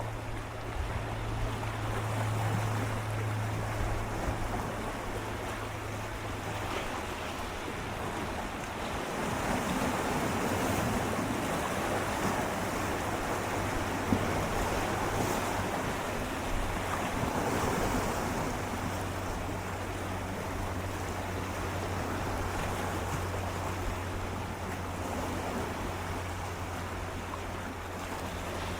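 Gentle sea waves lapping and swirling against shoreline rocks, a steady wash that swells a little twice, about a third and two thirds of the way through. A steady low hum runs underneath.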